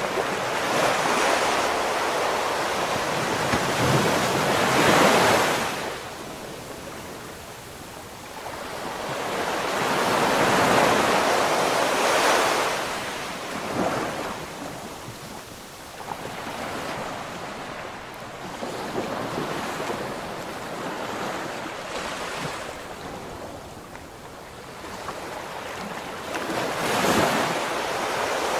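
Ocean waves breaking and washing back, rising and falling in slow surges, about three big swells with quieter wash between.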